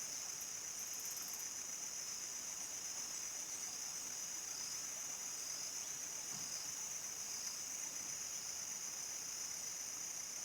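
A chorus of crickets trilling steadily and continuously, high-pitched, with fainter, higher insect calls above it.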